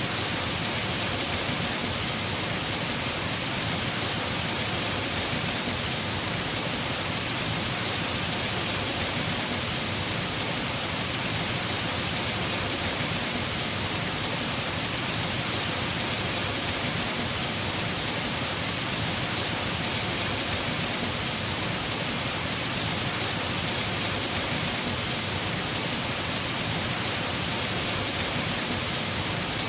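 Heavy rain drumming steadily on a house roof, a dense even hiss of drops without letup.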